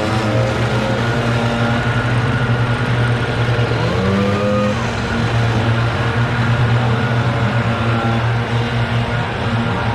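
Gas engine of leaf clean-up equipment running steadily under load, a constant low hum with shifting higher tones over it.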